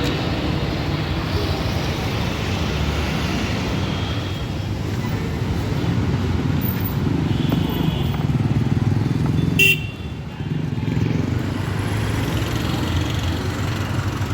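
Busy road traffic: vehicle engines running, with short horn toots. A sharp click comes about ten seconds in, followed by a brief dip in the noise.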